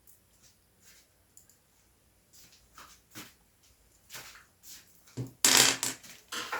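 Scattered light clicks and knocks of screws and a screwdriver being handled on a plastic keyboard case, followed about five seconds in by a louder burst of rubbing and shuffling as the case is handled.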